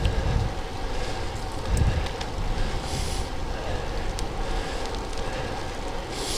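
Wind buffeting the microphone with steady road and tyre noise from a Vilano Shadow road bike being ridden, and a few scattered clicks.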